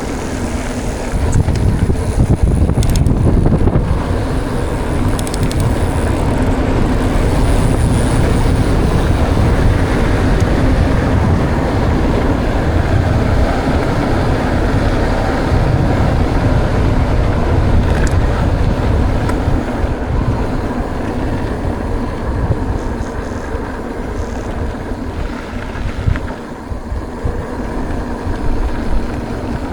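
Wind buffeting the microphone and tyre noise of a mountain bike rolling on a trail: a steady, loud rush with a few short rattles and knocks.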